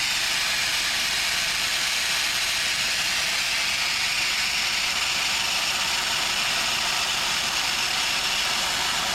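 Oxy-acetylene torch flame burning steadily with an even, unbroken hiss, the torch just lit and set to a neutral flame for heating steel.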